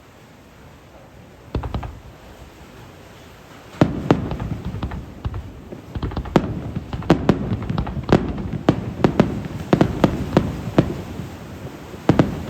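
Aerial fireworks shells bursting. One bang comes about one and a half seconds in, then from about four seconds a rapid barrage of many bangs follows.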